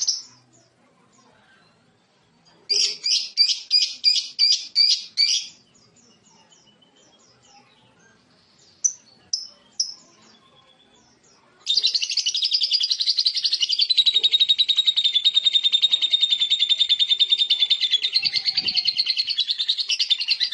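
A lovebird calling: a quick series of sharp, high chirps, a few single chirps, then about 12 seconds in it breaks into a long, unbroken rapid chattering trill, the 'ngekek' that lovebird keepers prize.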